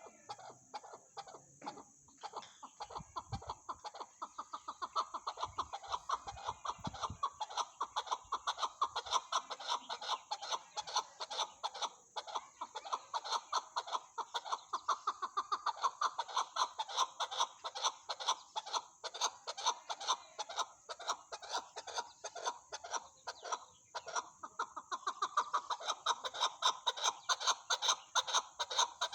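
Chukar partridge calling: a long, rapid run of clucking "chuck-chuck" notes, several a second, growing louder about five seconds in, over a steady high-pitched hiss.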